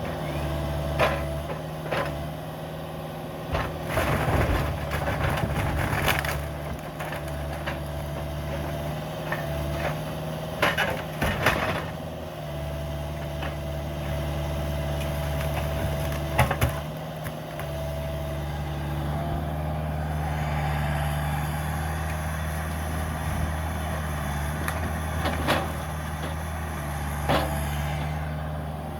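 Caterpillar 305 mini excavator's diesel engine running steadily with a constant whine over it, while wood and debris crack and bang in sharp bursts several times as the house is torn down.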